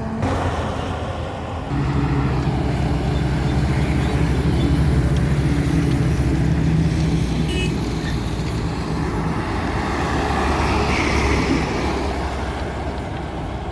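Heavily loaded truck's diesel engine running steadily with road noise, growing louder about two seconds in and easing off in the second half.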